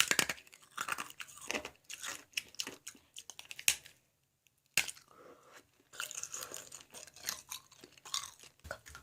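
Ice being chewed: a rapid run of crisp crunches from teeth biting through ice, stopping briefly about halfway through before the crunching starts again.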